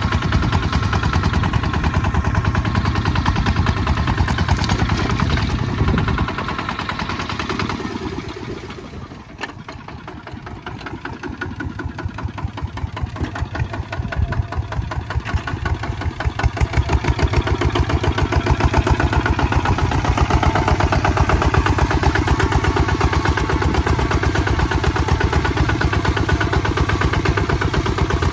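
Kubota ZT 155 DI walking tractor's single-cylinder diesel engine chugging in a steady, rapid beat. It fades about six seconds in, is lowest a few seconds later, and builds back up to full strength over the next several seconds.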